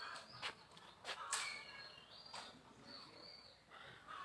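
Faint short, high bird chirps over quiet outdoor background, with a few sharp clicks.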